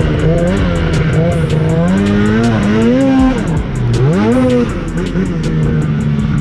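Two-stroke snowmobile engine revving up and down under throttle, with a sharp drop and then a climb about four seconds in.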